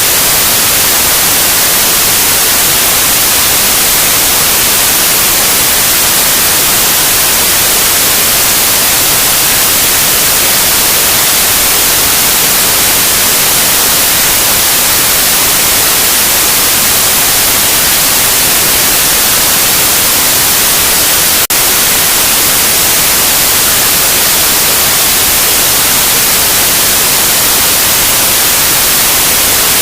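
Loud, steady white noise: an even hiss with no tones or rhythm, with a single momentary dip about two-thirds of the way through.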